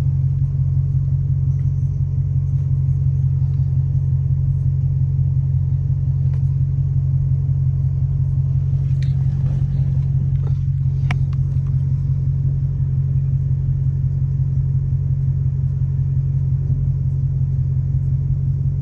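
Dodge Hellcat's supercharged 6.2-litre Hemi V8 idling, stopped at a red light, with a steady, deep rumble and no revving.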